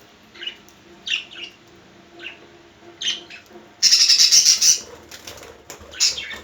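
Young budgerigar giving short, scattered chirps, with a loud harsh burst of about a second near the middle and one more sharp chirp near the end.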